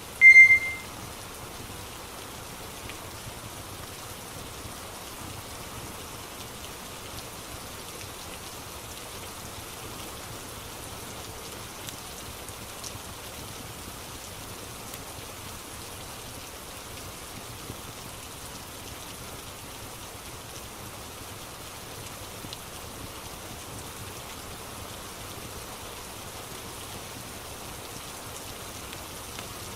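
Steady rain ambience, an even hiss of rainfall with a few faint ticks. A short electronic beep sounds right at the start.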